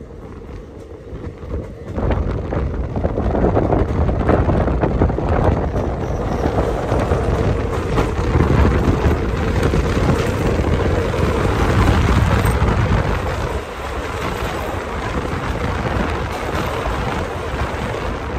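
Passenger train running at speed, heard from on board: a steady rush of wheel and wind noise that grows louder about two seconds in and eases a little past the middle.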